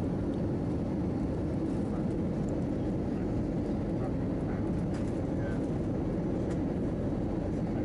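Steady cabin noise inside an Airbus A319-111 in flight: an even low rumble of the engines and airflow along the fuselage.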